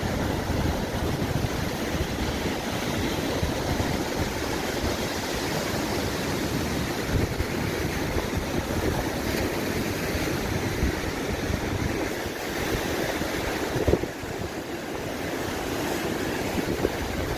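Wind buffeting the microphone in uneven low gusts over the steady rush of sea waves breaking on the shore, with a single sharp knock about three quarters of the way through.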